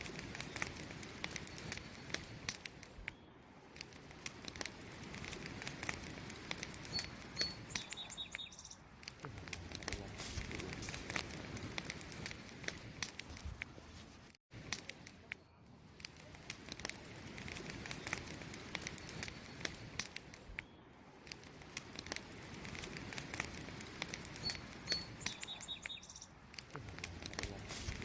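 Wood campfire crackling with many sharp pops over a steady hiss, with a few short, high chirps of crickets. The sound cuts out briefly about halfway through.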